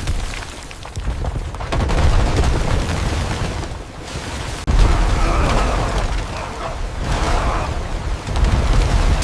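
Cinematic disaster sound effects: a deep, loud rumble with booms, and a sudden heavy hit about four and a half seconds in.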